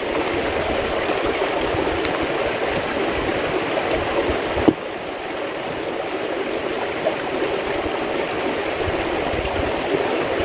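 Steady rush of running water. A sharp knock comes just under halfway through, after which the water is a little quieter.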